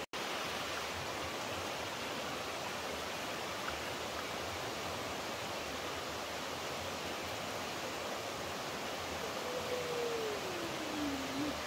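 Water rushing steadily, as from a stream or small waterfall. The sound drops out for an instant right at the start, and a faint tone falls and then turns back up near the end.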